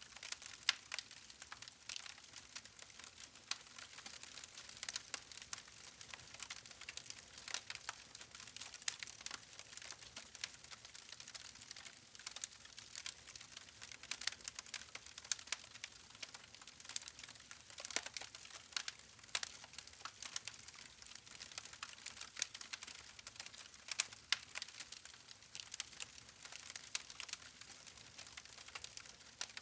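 Wood fire crackling, with frequent small irregular pops and snaps over a soft hiss of burning logs.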